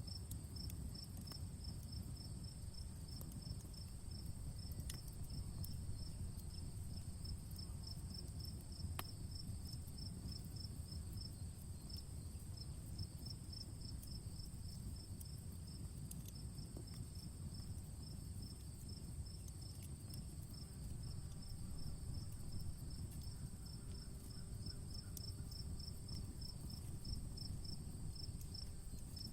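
Crickets chirping in a steady pulsed rhythm, with a continuous high insect trill behind them, over a low steady rumble and a few faint crackles from an outdoor campfire.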